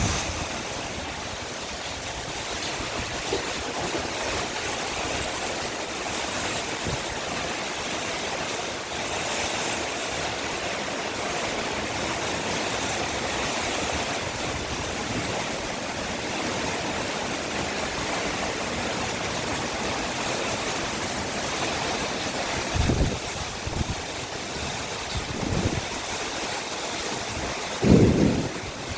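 Heavy rain pouring in a summer storm with strong wind, a steady hiss. Two brief low thumps break through near the end.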